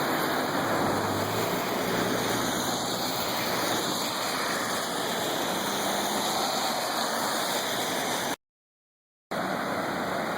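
Floodwater rushing steadily, a dense even roar of moving water. The sound cuts out completely for about a second near the end.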